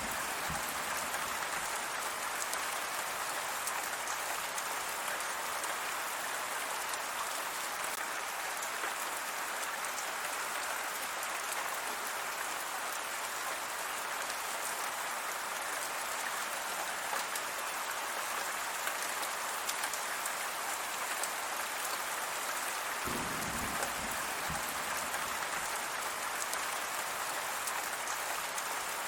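Steady rain falling, an even hiss of many drops throughout, with a brief low rumble near the end.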